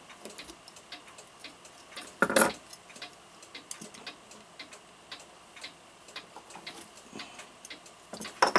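Mechanical clock ticking as a run of small, closely spaced ticks, with a brief louder scrape about two seconds in and sharp clicks near the end.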